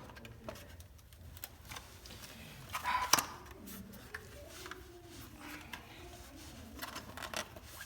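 Sporadic light clicks and clinks of small metal hitch parts and pins being handled, with one louder ringing clink about three seconds in.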